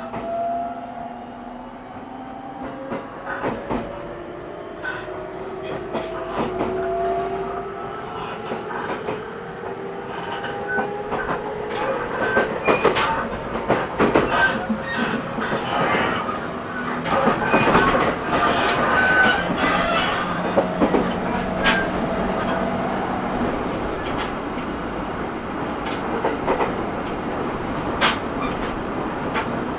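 Inside an E127 Series 0 electric train: the traction motor and inverter whine climbs steadily in pitch as the train accelerates. Then wheels click over rail joints, with brief squeals from the wheels.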